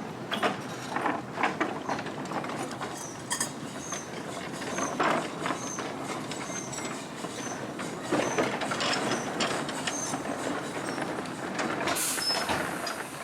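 Miniature railway train running along the track, its wheels clicking over the rail joints, with a run of short high squeaks. A burst of hiss comes near the end.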